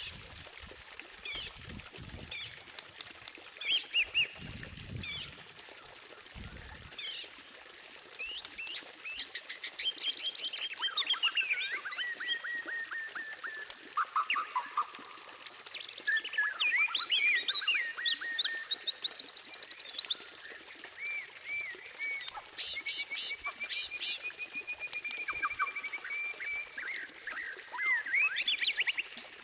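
White-rumped shama (murai batu) singing a varied song of quick whistled phrases, rapid trills and sharp high chips, sparse at first and then almost continuous from about a third of the way in. A few soft low thuds come in the first few seconds.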